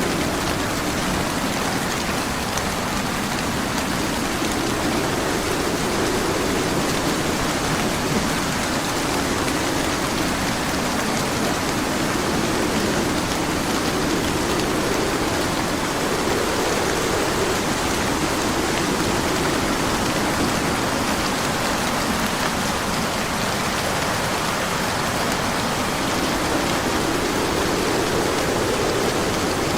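Steady heavy rain falling, an even hiss with a lower rushing that swells and eases every few seconds.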